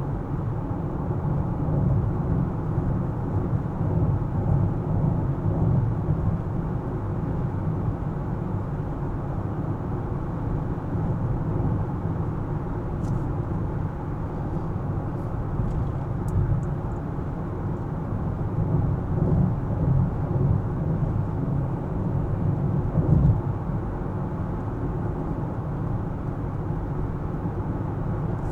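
Car driving on city streets: a steady low rumble of engine and tyre noise that swells and eases gently with the traffic.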